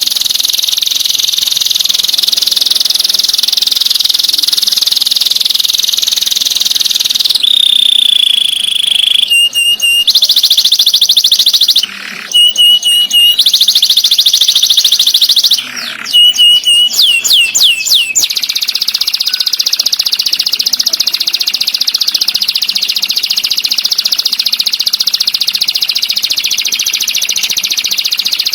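Songbird song: a very rapid, high, buzzing trill. Between about 7 and 18 seconds in it gives way to clear whistled notes and a quick run of downward-sweeping whistles, then the fast trill comes back.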